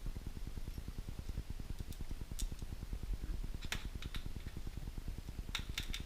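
A steady, rapid low mechanical throb, about a dozen pulses a second, with a few light metallic clicks on top, including a short cluster near the end, as bolts, washers and nuts are handled.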